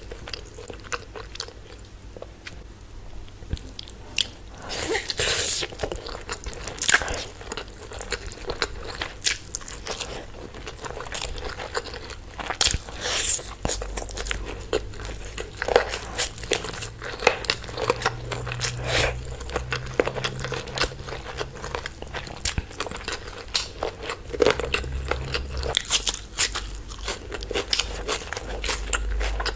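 A person eating chicken curry and rice close to the microphone: chewing and biting, with many irregular crunching clicks.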